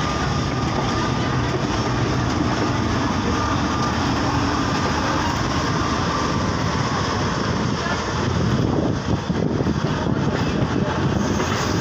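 Passenger train coach running along the track: a steady, loud rumble of wheels on rails, heard from the open doorway of the coach.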